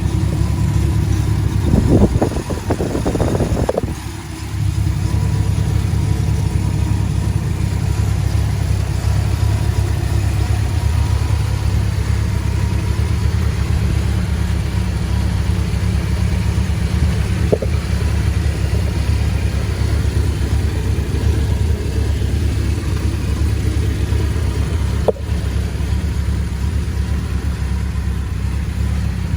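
1983 Dodge D150 Miser pickup truck running steadily, a low engine drone throughout. A brief louder, jumbled patch comes about two seconds in, and a couple of faint clicks come later.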